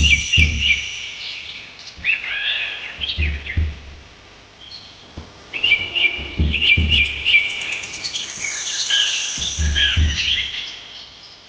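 Small birds chirping and twittering in bouts of a second or two, separated by short lulls, with low dull thumps underneath.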